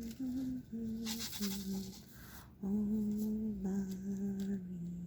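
A woman humming a tune to herself in a low voice, in a string of held notes that step up and down. There is a short rustle about a second in.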